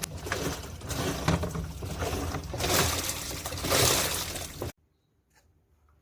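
Water rushing into a washing machine tub through the inlet valve, surging as it pours, then stopping abruptly near the end.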